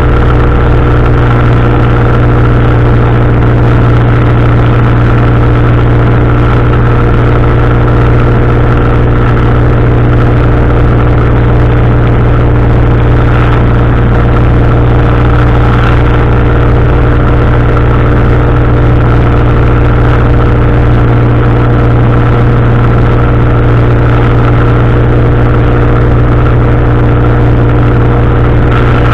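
Powered parachute's engine and propeller running loud and steady at a constant cruise setting, with no change in pitch.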